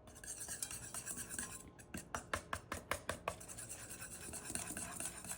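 Wood fire crackling in a fireplace, with a quick run of sharp pops about two to three seconds in over a steady hiss.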